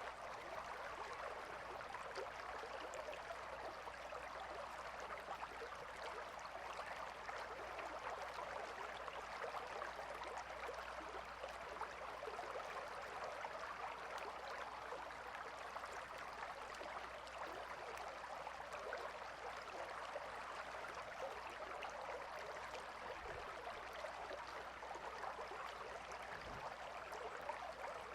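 Calm river water flowing steadily, an even, unbroken rush of running water.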